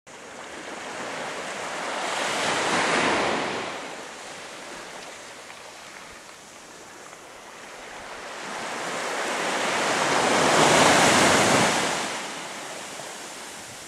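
Sea waves washing, a steady rush of water that swells twice: once about three seconds in and more loudly about eleven seconds in.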